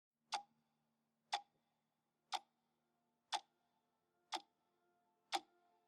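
Steady ticking, one sharp tick every second, six in all, over faint held tones.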